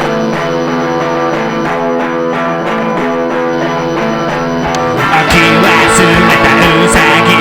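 Rock music: a guitar plays a repeating note pattern, and about five seconds in the full band comes in with drums and the music gets louder.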